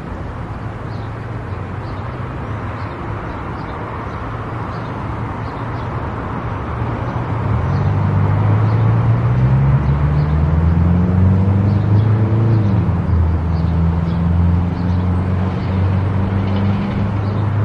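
Car engine and tyre noise while driving. The engine note rises as the car speeds up over several seconds, drops briefly about halfway through as it changes gear, then holds steady at a louder cruise.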